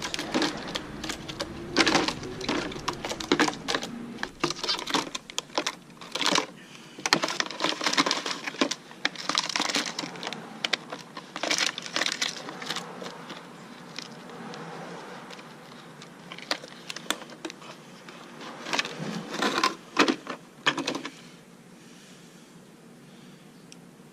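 Irregular clicking and knocking, sharp taps coming in uneven clusters, which stop about three seconds before the end, leaving a faint hiss.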